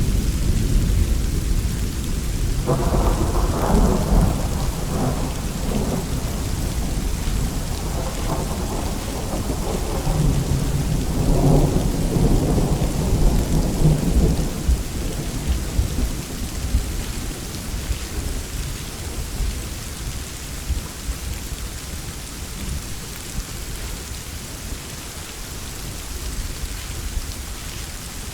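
Steady rainfall under a long roll of thunder. The rumbling swells in several surges through the first half, then dies away, leaving the rain hiss.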